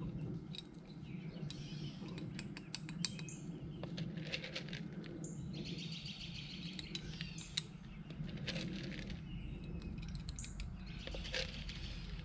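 Small birds chirping now and then over a steady low background, with many scattered light clicks and rustling throughout.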